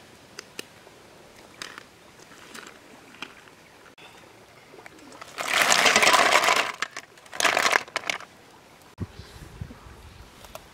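Wet snails tipped from a basket into a pan of hot oil over a wood fire: a loud splash of sizzling about five seconds in, lasting a second and a half, then a second, shorter burst of sizzling.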